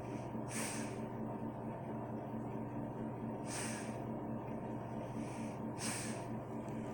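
Three short breathy puffs about two and a half seconds apart, over a steady low hum.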